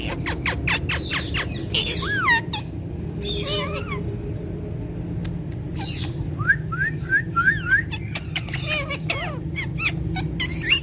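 Ringneck parakeets calling: a jumble of sharp chirps and squawks with whistled notes that rise and fall, including a run of five quick rising chirps about halfway through. A steady low hum lies underneath.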